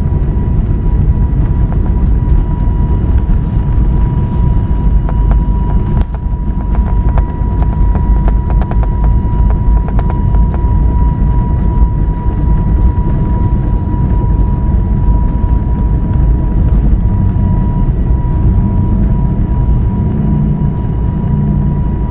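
Airbus A321neo's Pratt & Whitney PW1100G geared turbofans heard from the cabin: a loud low rumble with a steady high whine, and a run of quick knocks about six to ten seconds in.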